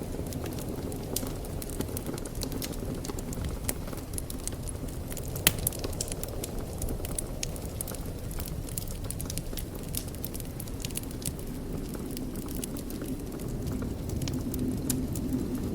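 Wood fire burning in a fireplace, crackling with scattered sharp pops over a steady low rumble of the flames. One louder pop comes about five and a half seconds in.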